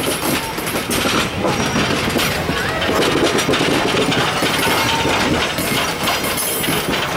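Passenger coach and caboose rolling past, steel wheels running over the rails.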